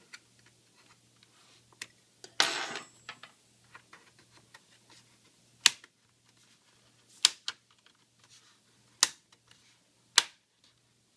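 Plastic snap-fit clips of a laptop palm rest popping loose as the case is pried open with a sharp tool: a short scraping crackle about two seconds in, then four sharp clicks a second or two apart.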